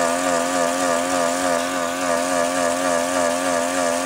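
Vehicle engine held at full throttle, running at a steady high pitch with a slight, even wobble.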